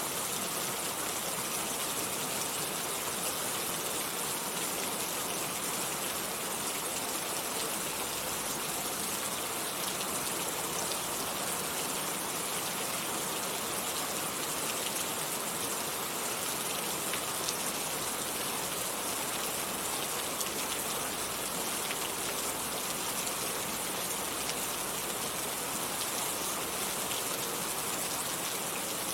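Steady rain falling, an even hiss with many fine drop ticks and no change in intensity.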